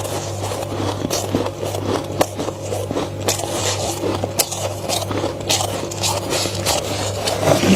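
Flaky freezer frost being bitten, crunched and scraped, with many quick sharp crackles close to the microphone. A steady low hum runs underneath.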